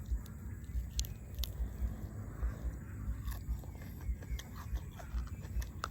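A person chewing and biting food close to the microphone, a steady working of the jaw with scattered sharp crisp clicks.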